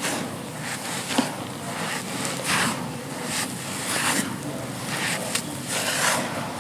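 Dry, crumbly clumps being crushed and crumbling apart: a series of gritty crunches about once a second, with one sharp crack a little after a second in.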